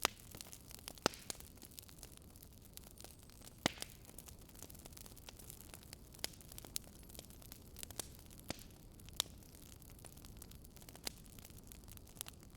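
Wood fire crackling: irregular sharp pops and snaps, a handful louder than the rest, over a soft steady hiss.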